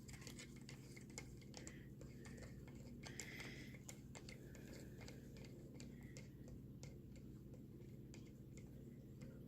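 Faint, irregular light clicks and taps of stirring citric acid into warm water in a cup, over a low steady hum.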